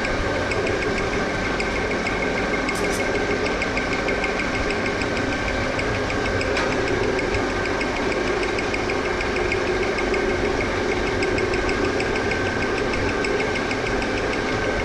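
Metal lathe set up for milling, its cutter taking a slot cut under power feed at 0.09 mm, with a steady whine and a hum under a rapid, regular knocking from the cut. The cutter does not like this feed rate: run back at the lowest feed, the knocking goes away.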